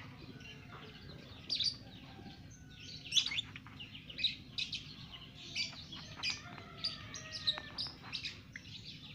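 A young lovebird chattering in a run of sharp, high chirps that come thicker and faster after the first few seconds, over a steady low hum.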